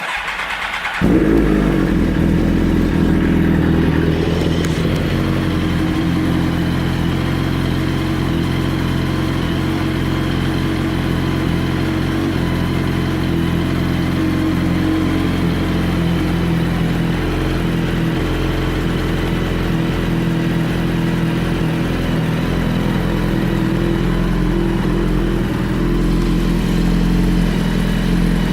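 2007 Suzuki GSX-R1000's inline-four engine with a full Two Brothers aftermarket exhaust: the starter cranks for about a second, the engine catches and settles into a steady idle.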